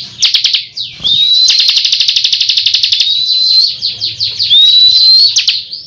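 Ciblek kristal, a prinia, singing loud, fast chattering trills of rapid repeated notes, about ten a second, broken by short rising whistles. This is the kind of song used as a lure call to bring wild birds in and to train caged birds.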